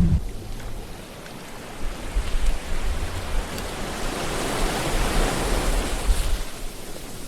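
Ocean surf: a wave washing in, the rush of water swelling to a peak around the middle and fading away near the end, over a low rumble.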